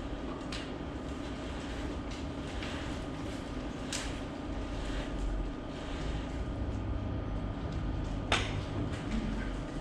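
Room tone of a hall: a steady low rumble and hum, with a few small clicks or knocks, the sharpest about four and eight seconds in.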